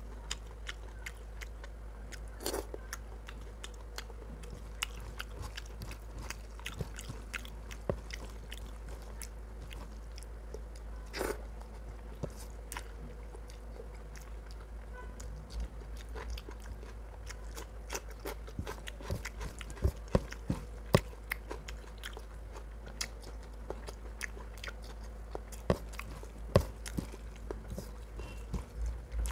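Close-up eating sounds: a man chewing rice and chicken curry, with irregular wet mouth clicks and smacks and the soft squish of fingers mixing rice in curry. A steady low hum lies underneath.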